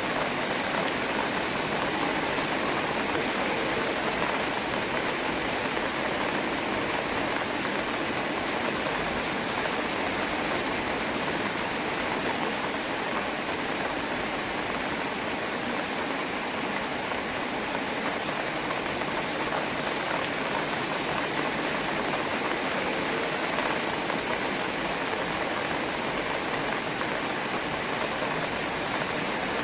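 Steady rainfall, an even hiss without single drops standing out.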